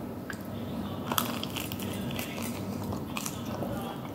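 A person chewing and biting food, with a few short sharp clicks and taps from handling the food, the loudest about a second in.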